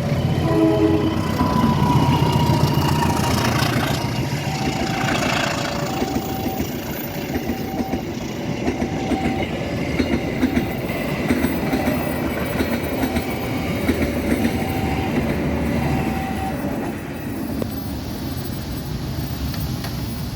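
Passenger train KA Kaligung passing by: a deep rumble of the diesel locomotive and coaches, with a horn blast at the start. Through the middle, a repeating two-note tone and a regular clack of the wheels can be heard, and the sound eases off slightly near the end.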